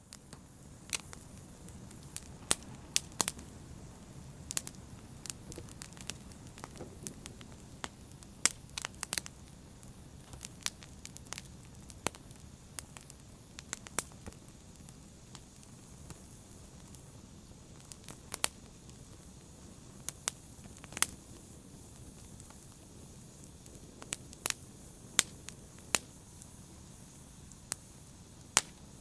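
Fireplace fire crackling: irregular sharp pops and snaps, several a second at times, over a steady low hiss and rumble of the flames.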